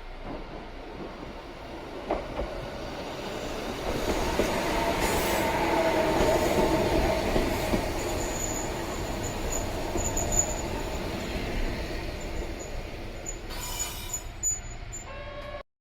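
Sangi Railway Hokusei Line narrow-gauge electric train with nose-suspended motors running along the track; the running noise builds about four seconds in. A thin, high wheel squeal comes and goes through the second half, and the sound cuts off abruptly just before the end.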